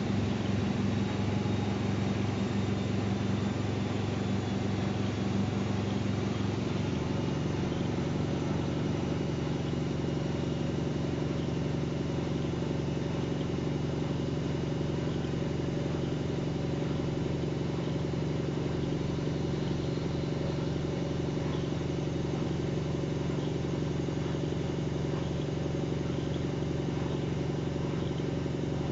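Washing machine running: a steady motor hum and whir, its main tone stepping down slightly about seven seconds in.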